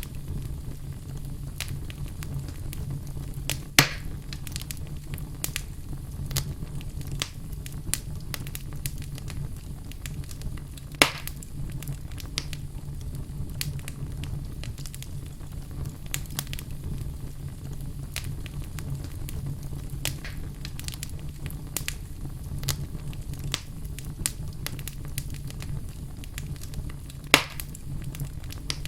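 Wood fire burning in a fireplace: steady crackling with scattered small snaps over a low rumble, and three louder pops, about 4, 11 and 27 seconds in.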